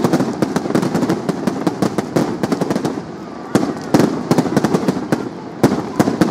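Fireworks going off: dense, rapid crackling and popping, with several sharper, louder bangs from about three and a half seconds in.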